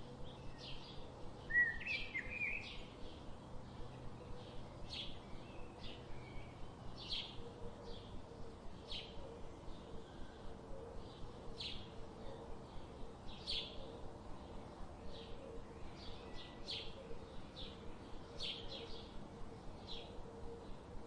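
Birds chirping: short high chirps repeating about twice a second, with a brief gliding call about two seconds in, over a faint steady hum.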